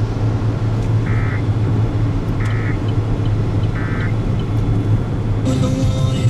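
Three short, warbling data bursts about a second and a half apart: the SAME end-of-message tones that close a NOAA Weather Radio broadcast. They sound over a steady low vehicle engine hum, and about five and a half seconds in the sound changes as something new comes in.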